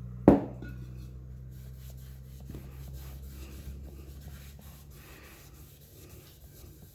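A single sharp knock near the start, then a rag rubbing and wiping over a painted tank to work brake cleaner into a stain, over a steady low hum.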